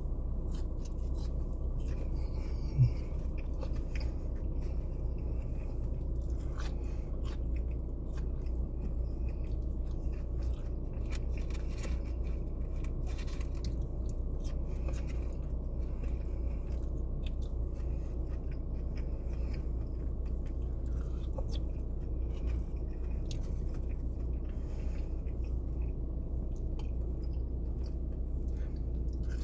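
A person chewing and biting into sauced fries close to the microphone, with many small irregular mouth clicks, over a steady low hum. A single louder thump comes about three seconds in.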